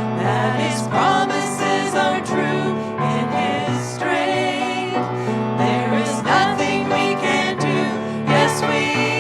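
Christian worship music: singing voices with vibrato over instrumental accompaniment that holds sustained low notes, the chords changing every second or so.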